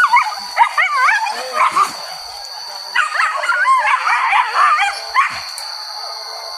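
Hunting dogs yelping and baying in quick, wavering cries, in two bouts with a short pause between.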